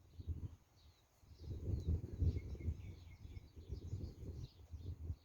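Wind buffeting the microphone in irregular gusts, dropping away for about a second near the start, with small birds chirping throughout.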